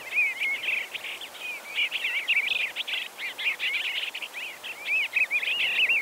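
Eastern bluebird singing a continuous run of short, quick warbled notes over a steady hiss.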